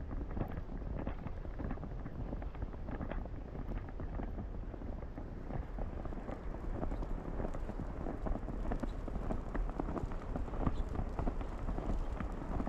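Footsteps crunching through snow, with a steady rumble of wind on the microphone.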